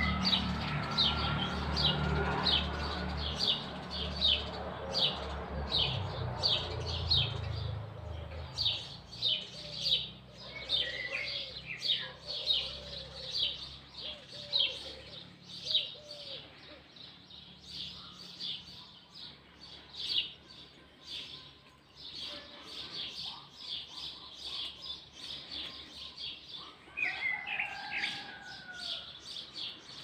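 Small birds chirping outdoors: a steady run of short, high chirps at about two a second, with a few lower, different calls from other birds now and then. A low rumble underlies the first several seconds.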